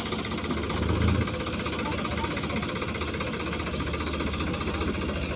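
Tractor diesel engine running steadily, a little louder for the first second or so and then settling to an even drone.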